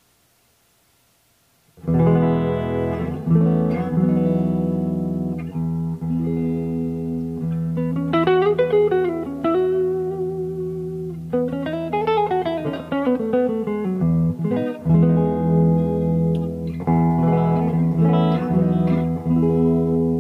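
Fresher FRS SS-40 guitar, a made-in-Japan early-1980s model, played after about two seconds of quiet: ringing chords and sustained notes, with notes sliding up and back down around the middle.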